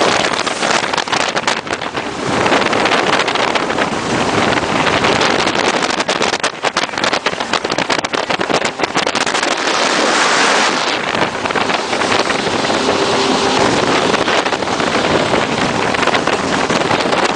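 Jet boat running at speed: a loud, steady rush of engine, water and wind noise, with wind buffeting and crackling on the phone's microphone.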